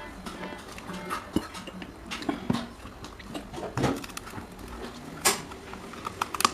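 Metal parts being handled during an old table fan's restoration: irregular clinks and knocks of metal on metal.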